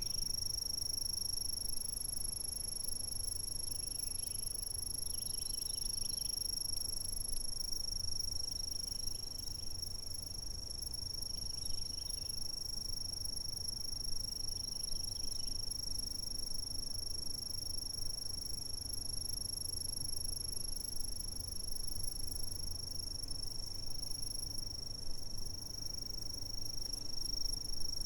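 Insects calling in a steady, unbroken high-pitched trill, with now and then a few softer, lower chirps and a faint low rumble underneath.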